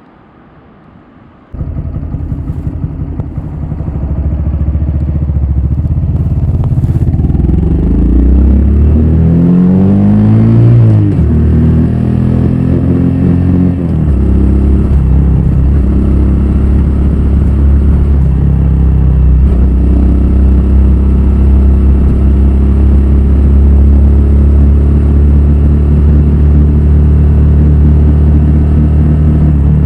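Honda Grom's 125 cc single-cylinder engine, breathing through a Yoshimura full exhaust system, starts up suddenly about a second and a half in and idles. It is revved up and back down around ten seconds in, then settles to a steady idle.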